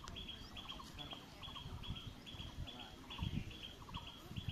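Birds chirping outdoors: a steady series of short high notes, about two or three a second, with lower chirps in between and a low rumble underneath.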